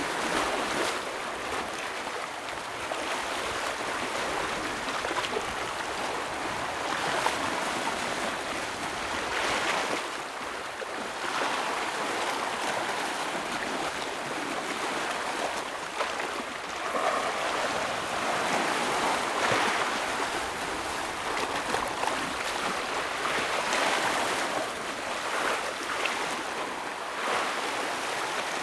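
Ocean waves washing and breaking against rocks on the shore, a continuous rush of water that swells and falls every few seconds.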